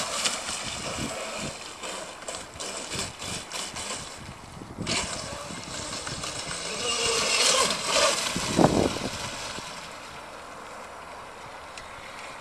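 Electric radio-controlled racing catamaran running on water: motor whine and hull spray that swell louder about seven to eight seconds in, then drop to a steadier, quieter hiss near the end. The boat is held back from full power by a low-voltage cutoff set too high.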